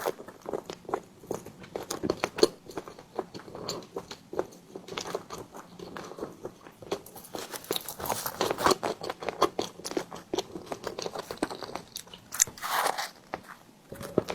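Close-miked eating sounds: biting into and chewing a tiger skin dessert, heard as a steady run of many small mouth clicks, with a louder, longer mouth noise near the end.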